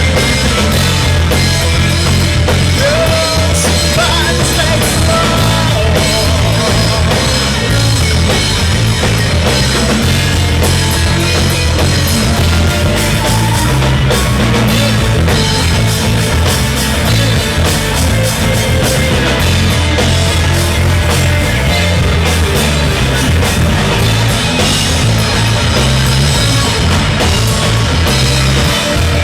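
Loud live rock band performance with a drum kit, recorded on a Canon PowerShot S90 compact camera. The sound is crowded and bass-heavy and comes out harsh and broken-sounding, a recording quality the uploader complains about.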